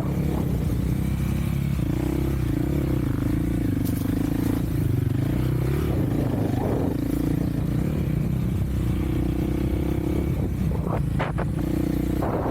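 Off-road vehicle engine running steadily under way, its pitch rising and falling a little with the throttle, with a couple of brief knocks near the end.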